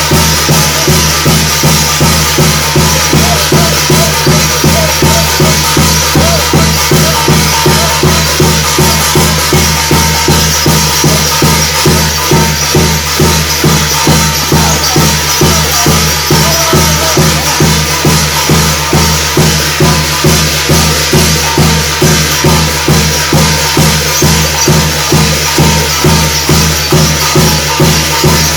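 Loud percussion music for a Korean shaman's initiation rite: a drum beating an even rhythm of about two beats a second under a steady high shimmer of rattling percussion.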